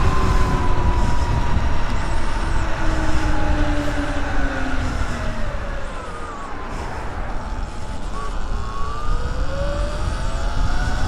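Wind rumbling on the microphone over the whine of a Sur-Ron Light Bee X electric dirt bike's motor. The whine falls in pitch as the bike slows over the first half, then rises again as it speeds back up near the end.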